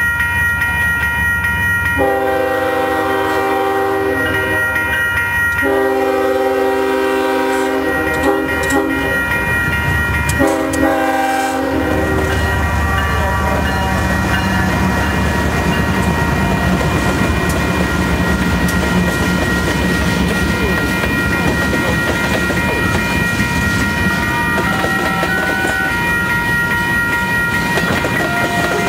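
Union Pacific freight locomotive air horn sounding three blasts, two long and a shorter third, then the diesel locomotives and the freight cars rolling past close by, wheels clacking over the rail joints.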